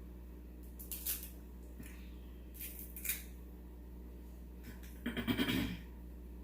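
Crab shells being cracked and picked apart by hand: a couple of short crackling snaps, then a quicker run of crackles near the end.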